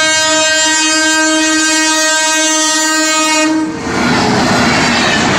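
Locomotive horn held as one long steady blast, cutting off about three and a half seconds in, then the loud rushing rumble of the train's LHB coaches passing close by.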